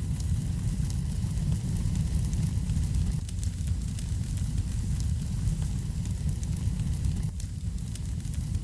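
Fire burning in a fireplace: a steady low rumble of the flames with many small crackles and pops scattered throughout.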